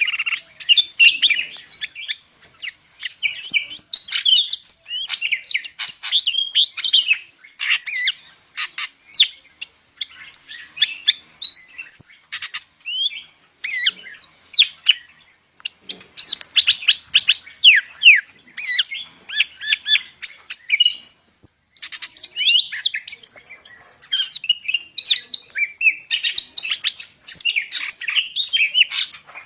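A cucak ijo (green leafbird) singing nonstop: a fast, varied stream of high chirps, whistled glides, trills and sharp clicks, packed with mimicked phrases of other birds. The song breaks off briefly about 21 seconds in and resumes.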